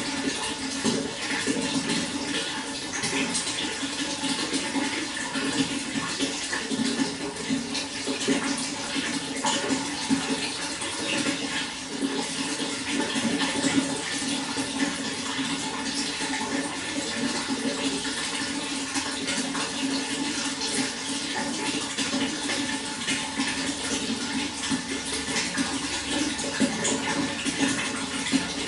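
Running water flowing and splashing in a steady, unbroken rush.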